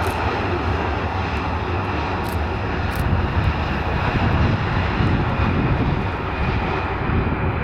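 Jet engines of a Ryanair Boeing 737-800 (CFM56-7B turbofans) running loudly at close range, a dense steady noise with a deep rumble that swells slightly in the middle.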